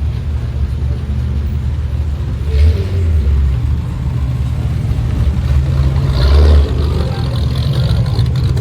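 Modified car exhaust rumbling low and steady, swelling louder twice, about two and a half and six seconds in.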